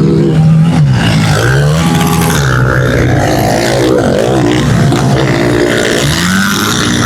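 Several small-displacement pit bike engines revving on the track, their pitches climbing and dropping with throttle and gear changes and crossing one another as the bikes pass.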